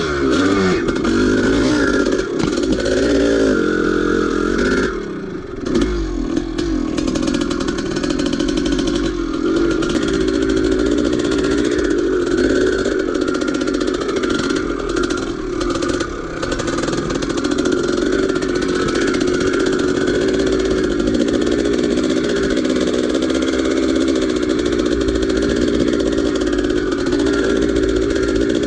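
1983 Maico 490's two-stroke single-cylinder engine running under throttle, its pitch rising and falling as the rider works it, with a brief let-off about five seconds in. Scattered knocks and rattles sound through the middle stretch.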